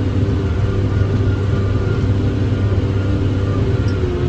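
John Deere 7410 tractor's diesel engine running steadily under load, heard from inside the cab, while it pulls a round baler picking up hay: an even, continuous low hum.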